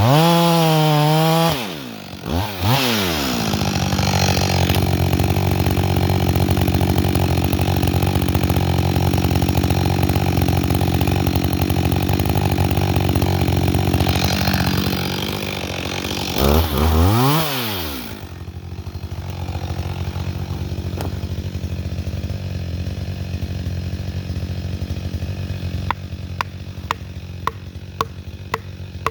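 Chainsaw cutting into a hemlock trunk at full throttle, revving down and back up near the start and again at about 17 seconds, then settling to a lower, steady run. Near the end come sharp, evenly spaced strikes, about two or three a second, typical of a felling wedge being hammered into the cut.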